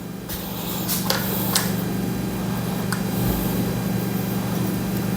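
A steady low hum, with a few light, irregular metallic clicks from a 14 mm socket working the crankshaft bolt of a motorcycle engine.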